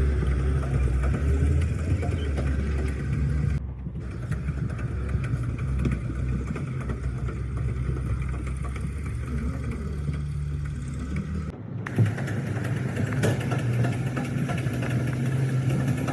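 A vehicle engine running steadily with a low rumble. The sound changes abruptly twice, about 4 and 12 seconds in.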